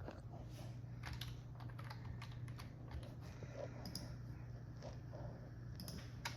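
Faint, irregular light clicks and taps, like typing on a keyboard, over a steady low hum.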